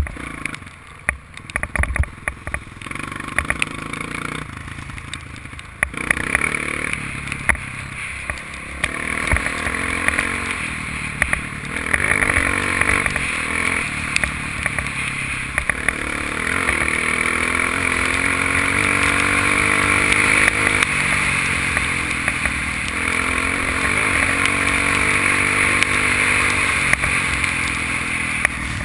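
Honda dirt bike engine running as it is ridden, its revs rising and falling, with a few sharp knocks in the first few seconds; it grows louder and steadier from about halfway through.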